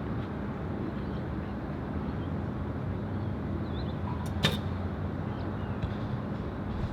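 Steady wind noise on the microphone, with one sharp snap about four seconds in from a recurve bow being shot.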